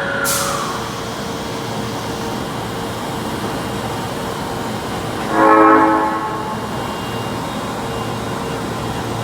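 Osaka Metro train at a station platform, its running noise steady, with a short hiss just after the start. About five seconds in, a train horn sounds one short blast lasting about a second.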